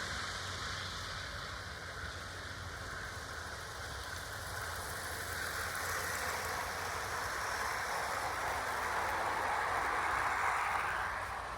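OO gauge model train, the GWR Manor-class locomotive 'Torquay Manor' with its coaches, running along garden track. The wheels on the rails make a steady rushing rattle that grows louder as the train comes closer, loudest about ten seconds in, then fades as it passes.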